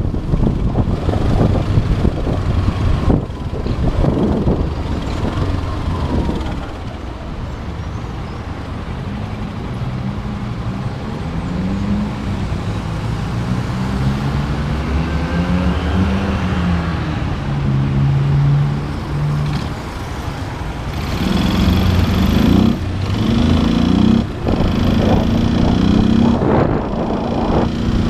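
Motorcycle engine running in city traffic, its pitch rising and falling as it speeds up and eases off, with short breaks like gear changes in the last several seconds. Wind noise on the microphone is strong in the first several seconds.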